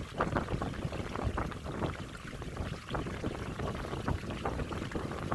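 Water splashing and lapping irregularly against a kayak's hull, with wind buffeting the microphone.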